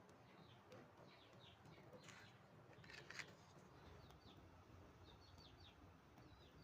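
Faint, scattered bird chirps, short high notes falling in pitch, over low background noise. Two brief noisy rustles come about two and three seconds in.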